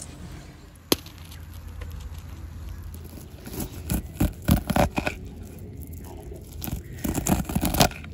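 Scattered clicks, knocks and scraping from food preparation: utensils and containers being handled, with a sharp click about a second in and two busier runs of clicking and scraping around four seconds in and near the end.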